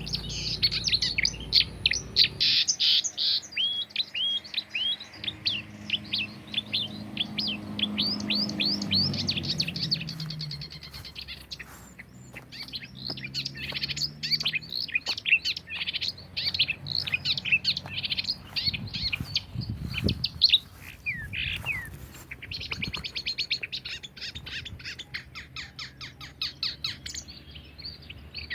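Songbirds chirping in fast runs of short, high, sweeping notes, several per second, broken by brief pauses, over a faint low hum.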